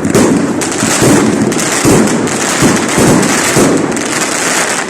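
Fireworks salute: a dense, continuous barrage of overlapping bangs and crackling from many shells bursting at once.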